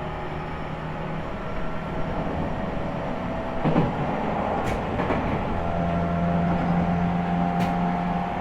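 Interior running sound of a JR East E501 series electric train, heard from inside a motor car with a Toshiba IGBT inverter drive. Wheels on rail give a steady rumble, with steady electrical tones from the drive. There is a short dip in pitch about three and a half seconds in, and two light clicks near the middle and near the end.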